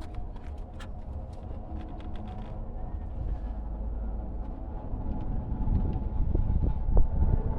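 Small clicks in the first couple of seconds as a spark plug is threaded by hand into an Oldsmobile 307 V8's cylinder head, over a steady low rumble that grows louder toward the end.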